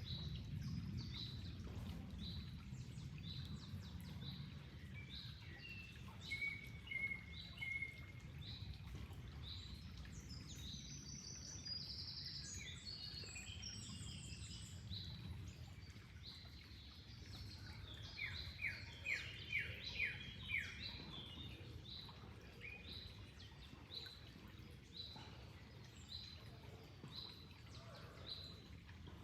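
Songbirds chirping and singing over a steady, low rush of flowing water. One bird repeats a short high chirp about once a second, and a quick run of about six sharp, loud notes comes about two-thirds of the way through.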